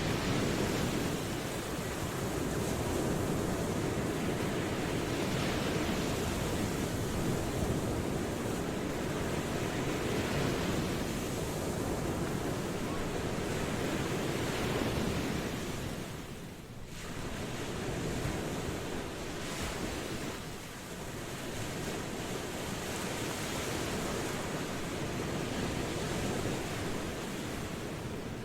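Ocean waves washing on a shore in a continuous rushing wash that swells and eases, with brief lulls about two thirds of the way through.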